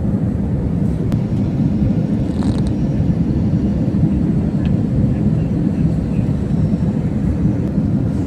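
Steady low rumble of an airliner's engines and rushing air heard inside the passenger cabin.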